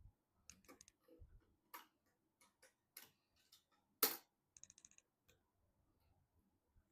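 Scattered light clicks and taps of computer hardware being handled and fitted, with one sharper click about four seconds in, followed by a quick run of small ticks.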